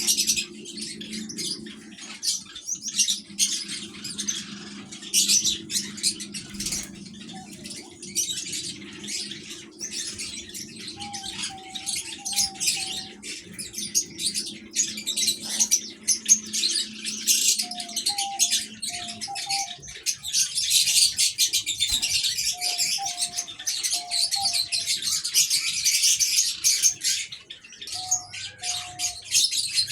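Aviary birds chirping densely and continuously, with short series of low, soft coos from diamond doves repeated four times, about a third of the way in and again near the end.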